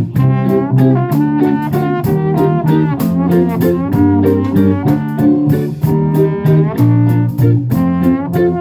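Live band music with a steady drum beat and pitched instruments playing.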